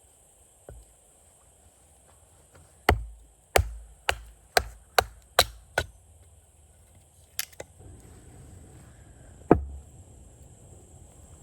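Wood being chopped with a blade: a run of seven sharp chops about half a second apart, then a pause and two more single chops, the last one among the loudest.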